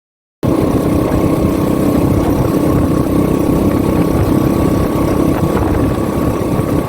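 Motorcycle engines running steadily, with a low rumble and a constant hum. The sound cuts in abruptly about half a second in.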